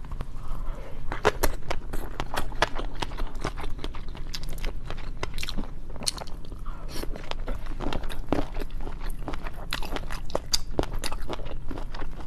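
Close-miked chewing and biting of seafood: wet smacking with irregular crunchy, crackling clicks throughout.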